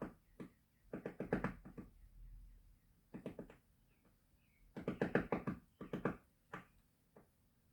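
Woodpecker pecking on wood: short bursts of rapid sharp taps, several a second, with pauses and single taps between the bursts.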